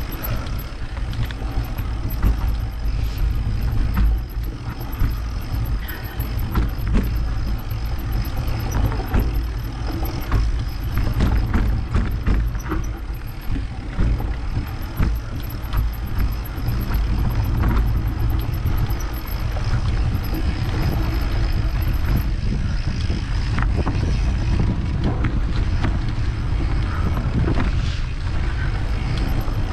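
Mountain bike riding over a rough trail: wind buffets the microphone with a steady low rumble, and frequent short knocks and rattles come from the bike going over bumps.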